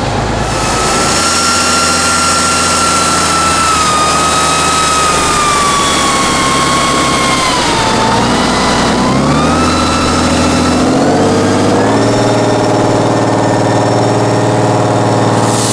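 Tatra 8x8 truck's turbo-diesel engine working under load, with a high whine over it that sags in pitch about halfway through and recovers. Near the end the engine revs climb and hold higher.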